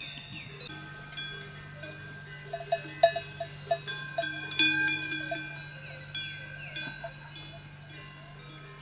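Metal bells clanking irregularly, several at different pitches, with a quick flurry of strikes in the middle; a steady low hum runs underneath.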